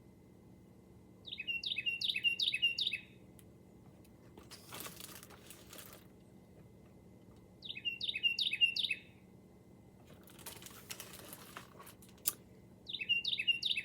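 Recorded Carolina wren song played from a bird-call website: three bursts of a rapid, ringing phrase repeated about five or six times, each burst about two seconds long and a few seconds apart. This is the song rendered as 'tea-kettle, tea-kettle'. Soft rustling comes twice between the bursts.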